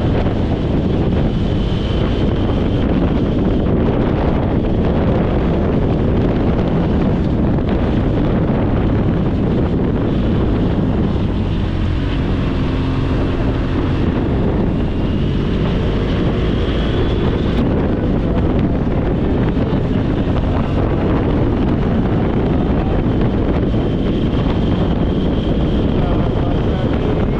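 Heavy wind buffeting on the microphone of a motorcycle ridden at speed, with the bike running underneath as a steady drone. A faint whine sits above the noise and rises briefly about two thirds of the way through.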